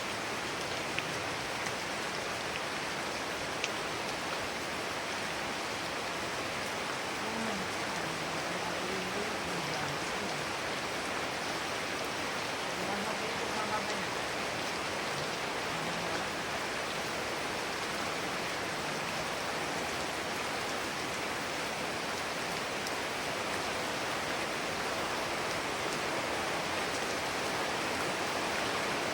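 Heavy rain falling steadily, an even continuous hiss of rain on surfaces.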